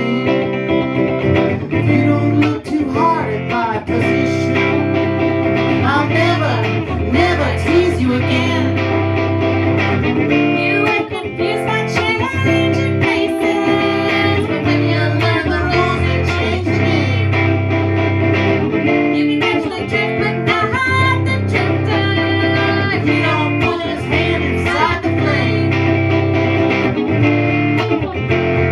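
Instrumental break in a country-folk song: guitars playing the tune with no singing, some notes gliding or bent.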